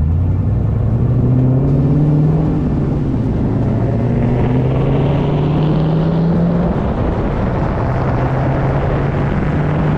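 Car engine running under load as the car drives off, its note rising over the first couple of seconds and then holding steady, over road noise.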